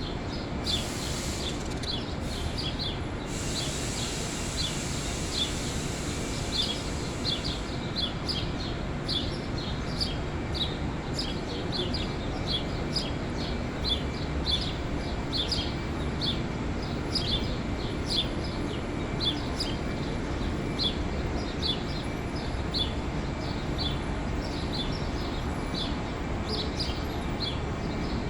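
Small birds chirping, short high calls repeating about two a second, over steady background noise.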